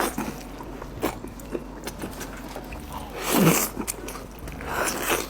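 Close-miked eating sounds: lamb meat being bitten and chewed, with wet mouth clicks and a louder wet rush about three seconds in and another near the end.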